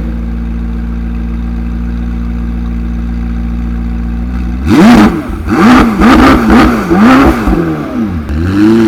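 McLaren 765LT's twin-turbo V8 idling steadily, then revved hard in a quick series of throttle blips, about six, starting a little after halfway.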